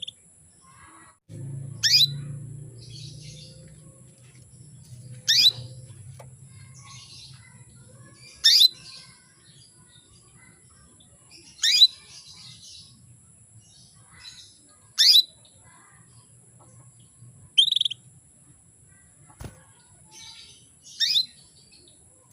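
Female canary giving short, sharp calls about every three seconds, each a quick downward sweep, with fainter chirps between them: the call of a hen in breeding condition to a male.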